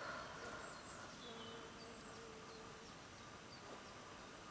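Faint garden ambience: a flying insect buzzing steadily, fading out about three seconds in, with a few short, faint, high bird chirps.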